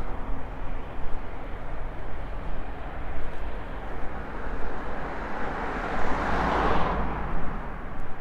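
Wind rumbling on the microphone over road traffic noise, with a car passing that swells and fades about six to seven seconds in.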